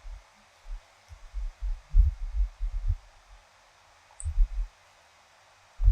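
Close-miked chewing of food: soft low thumps in bursts, a long run from about a second in to about three seconds in, another short run around four seconds in, and more at the end.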